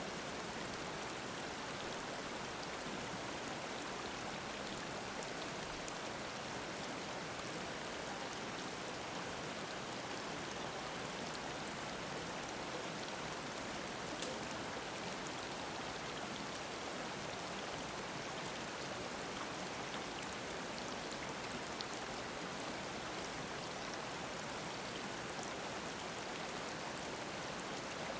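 Mountain stream babbling over rocks: a steady, even rush of water, with a few faint droplet ticks, the clearest about halfway through.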